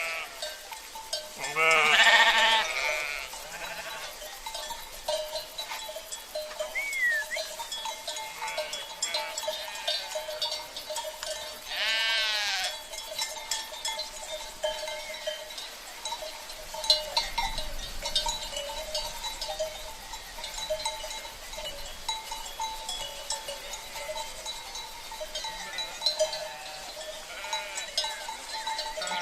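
Flock of sheep with livestock bells: two loud wavering bleats, about two seconds in and again about twelve seconds in, fainter bleats near the end, and bells clinking and ringing steadily throughout.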